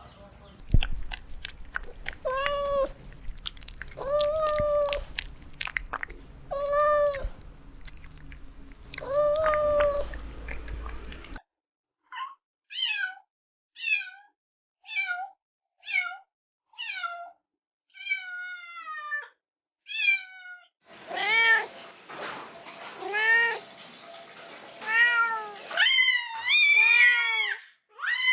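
Kittens meowing again and again, about one call every second or two. There are lower, longer meows at first, then a run of short, higher, falling mews about halfway through, then louder meows near the end.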